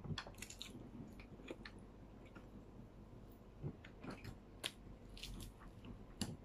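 A person chewing food with the mouth, with small wet clicks and crackles now and then.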